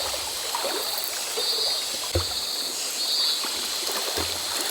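River water flowing and trickling steadily. A high trilling sound comes and goes three times over it.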